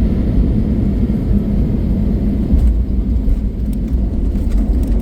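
Airbus A321neo cabin noise: a loud, steady low rumble with faint scattered rattles, as heard on the aircraft's approach or landing roll.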